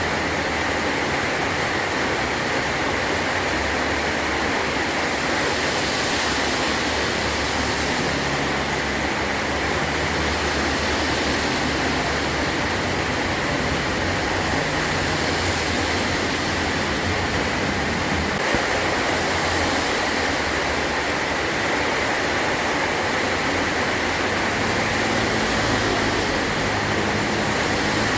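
Heavy rain falling steadily on a tin roof, an even hiss with no pauses.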